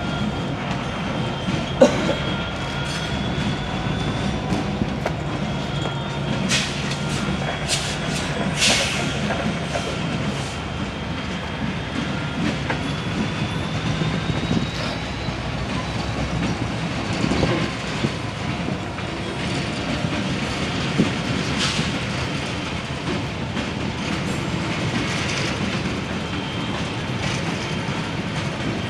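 A train rolling past steadily, its wheels clicking and knocking over the rail joints.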